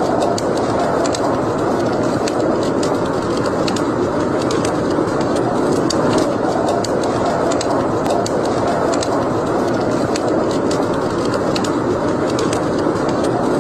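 Wood fire burning in a fireplace: a steady rushing sound of the flames with frequent, irregular sharp crackles and pops.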